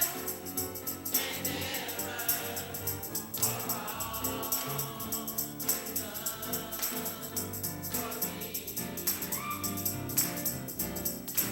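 Gospel choir singing a slow worship song with instrumental backing, a tambourine shaking in time.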